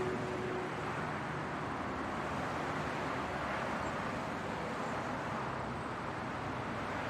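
Steady rumble and hiss of a car driving, like road noise heard from a moving car, with a faint held tone that fades out within the first second.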